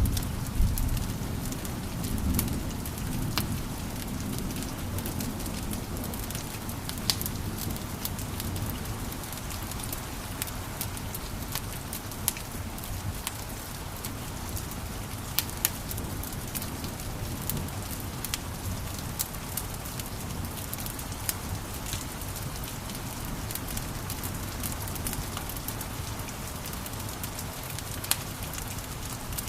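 Wood fire crackling in a fireplace: a steady low hiss of flame with frequent sharp pops and snaps.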